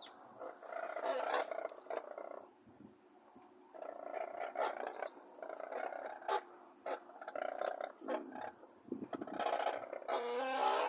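Brolgas at close range making rough, rasping hissing sounds in repeated stretches, with a few sharp clicks, and a short wavering call near the end.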